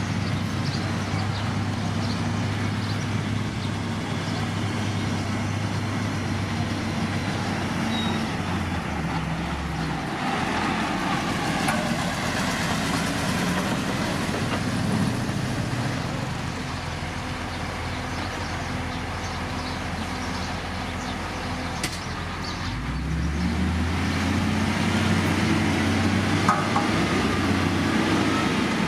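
Heavy diesel engine of road-construction machinery running steadily. Its pitch drops about a third of the way in, then rises again as it revs up near the end.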